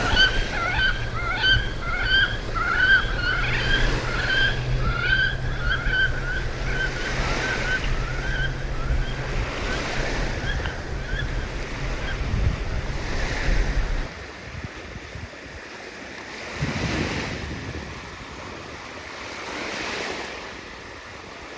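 Surf washing on a beach with wind buffeting the microphone. Over it, for the first several seconds, ducks give quick short calls, several a second, fading out. About fourteen seconds in the wind rumble stops and only quieter swells of surf remain.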